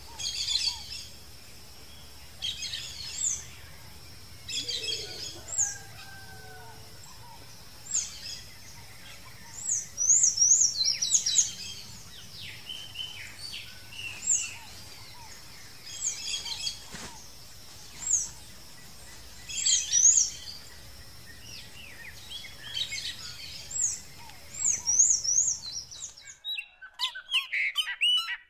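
Birds chirping and calling in short repeated phrases of high notes, over a faint steady high tone. Near the end the background noise drops away abruptly and a different bird calls in quick runs of notes.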